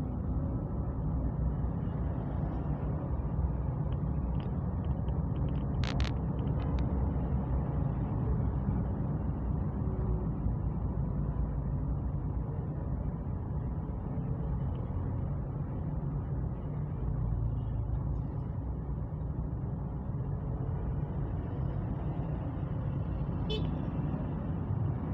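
Steady low rumble of a vehicle on the move, with road and wind noise, and a few brief clicks about six seconds in.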